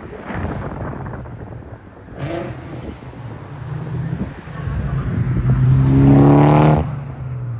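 Infiniti Q50's twin-turbo V6 accelerating, its engine note climbing in pitch in short pulls. The longest pull, from about five seconds in, is the loudest and drops off suddenly near the end.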